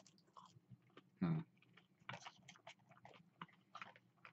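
A person biting and chewing a mouthful of food close to the microphone, in small irregular sounds, with a short hum from the eater about a second in.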